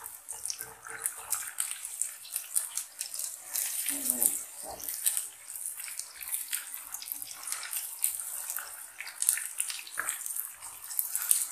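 Sliced onions and chopped tomatoes sizzling and crackling in hot oil in a wok, stirred with a slotted spatula.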